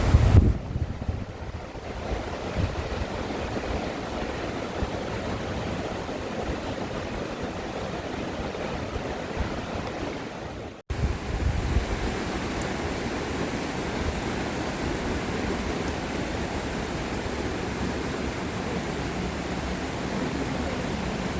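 Steady rushing of a mountain valley stream, a continuous even water noise that breaks off for an instant about halfway through.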